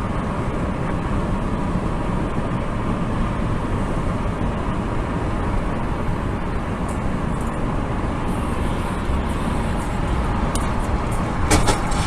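Steady road and engine noise of a car driving, as picked up by a dash camera, with a few short clicks near the end.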